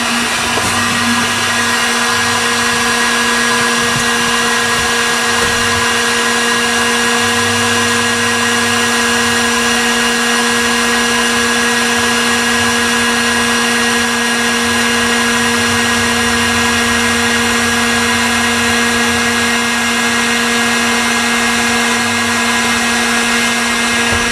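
Heat gun running steadily, a fan motor's constant hum under a rushing hiss of air, used to warm sound-deadening mat so it presses into place more easily.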